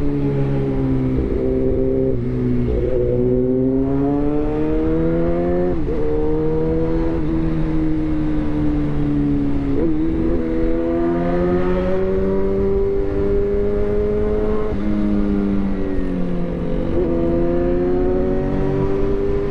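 Suzuki GSX-R1000 inline-four engine running through a replica SC-Project exhaust. Its pitch climbs steadily and then drops back sharply, several times over.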